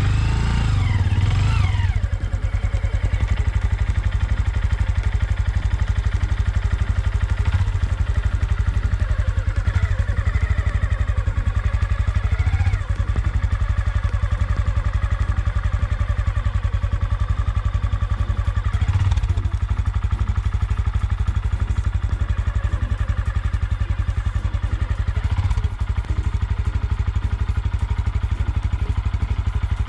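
Honda Grom's small single-cylinder four-stroke engine running steadily at low revs, with a few brief rises in revs, as the motorcycle is loaded into the truck bed.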